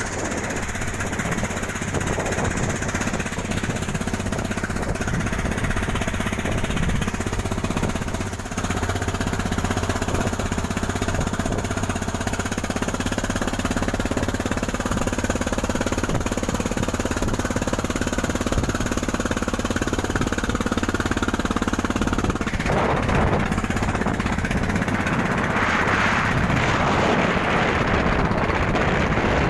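Cargo boat's engine running steadily with a hard, rattling beat. About two-thirds of the way through, the steady engine note gives way to a louder, noisier rush.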